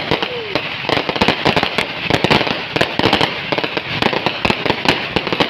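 Fireworks and firecrackers going off without a break: a dense, fast run of overlapping bangs and crackles, many a second.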